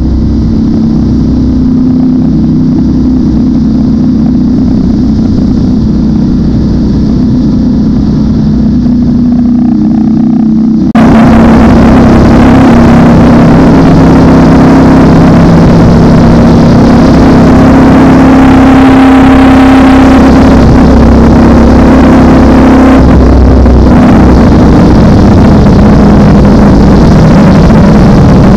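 Ducati Panigale V4's V4 engine running at a steady cruising pace, heard from the rider's seat while riding through a road tunnel. About eleven seconds in, the sound turns suddenly louder and fuller, with added hiss.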